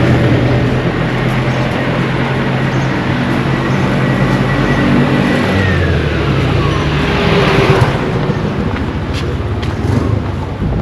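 Motor vehicle engine running close by, then passing with a drop in pitch and a swell of noise about seven to eight seconds in.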